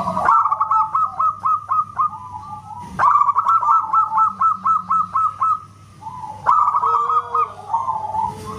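Zebra dove (perkutut) singing: three runs of rapid, clipped whistled notes, about six a second, each run starting abruptly, over a faint steady hum.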